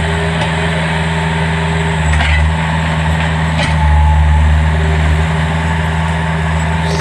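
Skid-steer loader's diesel engine running steadily under work, swelling louder for about a second past the middle, with a couple of faint knocks.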